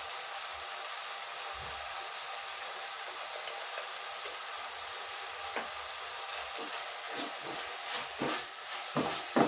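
Spiced chicken filling sizzling in a frying pan, a steady hiss. From about two-thirds of the way in, a spoon stirs it, knocking and scraping against the pan.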